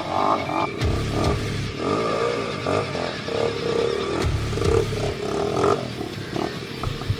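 Off-road enduro motorcycle engine revving up and down in repeated short bursts of throttle.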